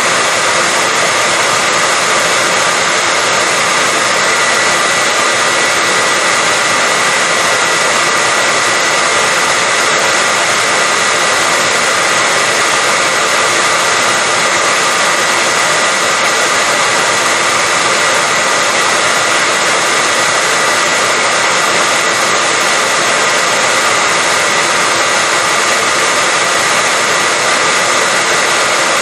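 Hair dryer running steadily without change: an even rush of air with a steady high whine from the motor.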